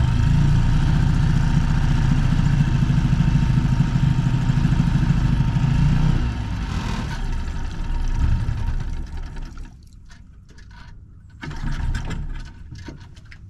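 A boat's motor runs steadily for about six seconds, goes unsteady and stops about ten seconds in, then runs briefly again a little later.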